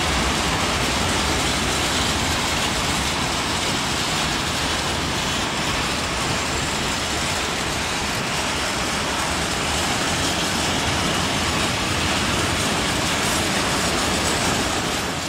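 Freight train of open wagons rolling past, a steady loud rumble of wheels on the rails.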